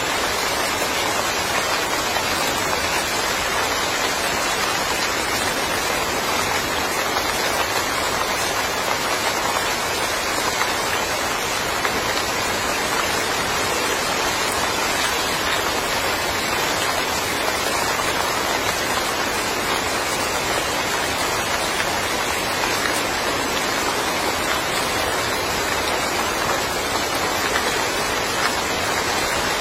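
Steady rain falling in a yard, an even hiss of rain on surfaces.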